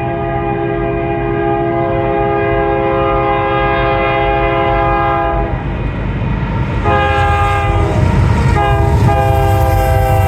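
Union Pacific diesel locomotive's multi-tone air horn sounding the grade-crossing signal: one long blast, a second long blast, a short one and a final long one, over the low rumble of the approaching locomotives, which grows louder.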